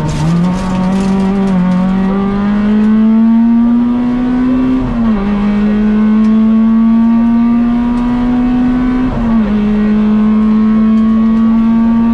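Peugeot 106 XSi rally car's four-cylinder engine heard from inside the cabin under acceleration, the pitch climbing steadily and dropping at upshifts about five and nine seconds in.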